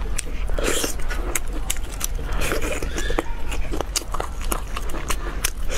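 Close-miked eating of saucy braised pork: wet chewing and lip smacks with many sharp mouth clicks, over a steady low hum.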